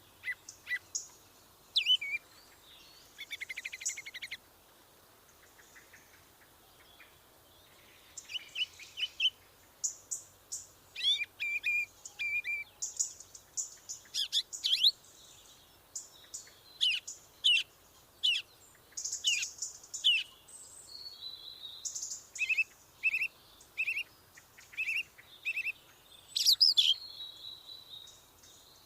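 Songbirds singing: many short chirps and whistled notes in varied phrases with pauses between them, and a brief buzzy trill a few seconds in.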